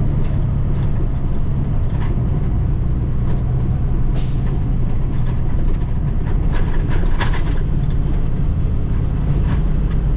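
Heavy diesel log truck's engine running steadily under way, with scattered rattles and clunks and a short hiss of air about four seconds in.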